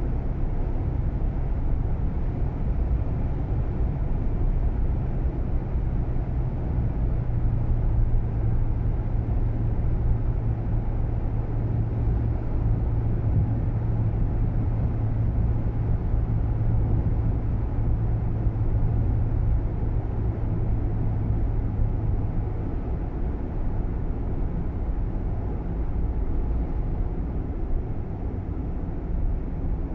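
Cabin noise inside a Nissan Roox kei car on the move: steady engine and road rumble with a low hum that fades out about three-quarters of the way through.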